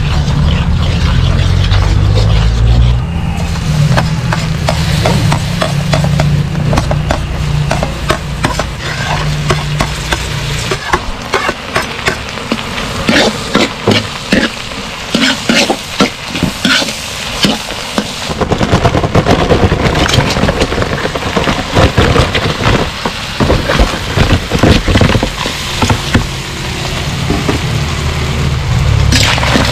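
Butter and then sliced onion and chili sizzling and frying in a metal wok, stirred with a metal spatula that scrapes and clinks against the pan many times from about ten seconds in. A low steady rumble runs under the first ten seconds or so.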